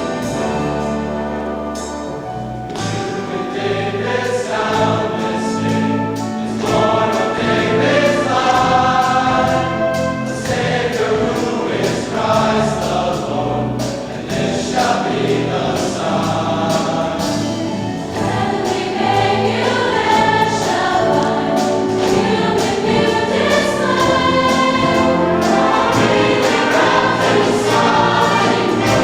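A choir singing, with instruments accompanying.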